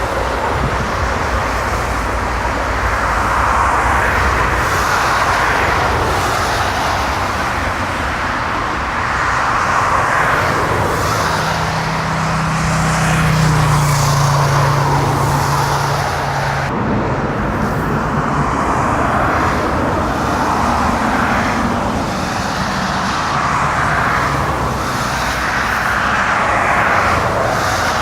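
Jet airliner engine noise, a loud continuous rushing sound, with a low steady hum in the middle. The sound changes abruptly about two-thirds of the way through.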